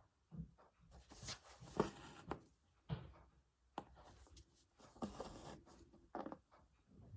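Hand embroidery at work: a needle and thread being drawn through fabric in faint, irregular scratchy strokes, with small clicks and rustles of the hoop and cloth being handled.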